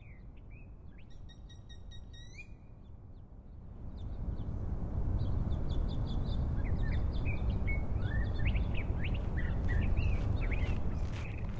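Birds chirping and calling: a few thin calls at first, then many short chirps over a low background noise that swells about four seconds in.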